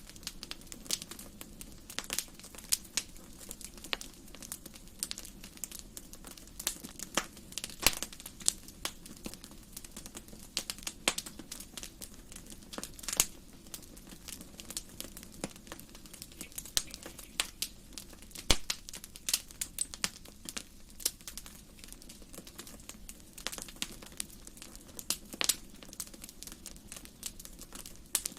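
Wood fire crackling in a fireplace: irregular sharp pops and snaps over a soft, steady low rush of flame.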